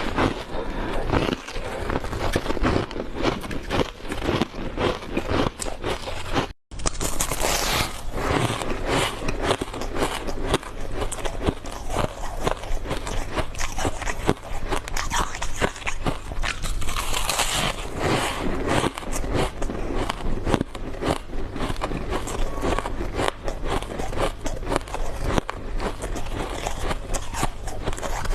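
Close-miked biting and chewing of refrozen powdery ice in big bites: dense, soft, continuous crunching. It breaks off for a moment about six and a half seconds in.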